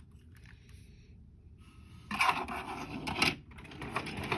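Toy trains being rummaged through and picked up: clattering and scraping of small plastic and die-cast engines against each other, in two bouts, about two seconds in and again near the end.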